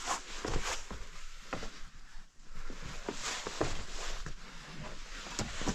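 A caver moving through a rocky cave passage: irregular scuffs, knocks and scrapes of boots and body against stone.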